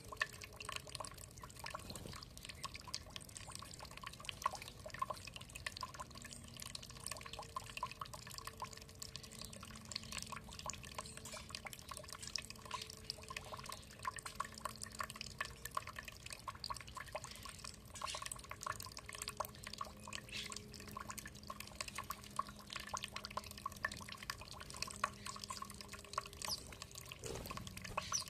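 Water dripping and trickling: a continuous patter of many small irregular drips and splashes.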